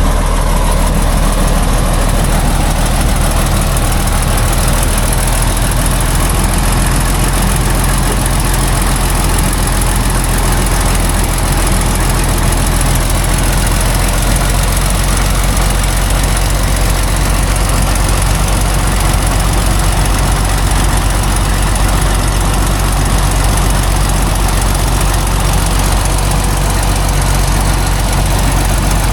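Heavy logging truck's engine running steadily at low revs, with no change in speed.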